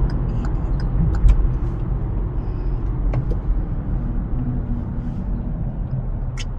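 Low, steady rumble of a motor vehicle running, with scattered light clicks and ticks over it.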